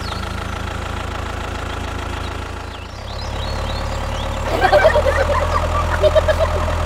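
Mini tractor's small motor running steadily, getting louder about three seconds in.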